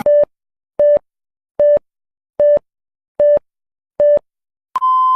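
Electronic heart-monitor beep sound effect: six short, evenly spaced beeps at a pulse-like rate, then a higher, long continuous tone near the end, the flatline.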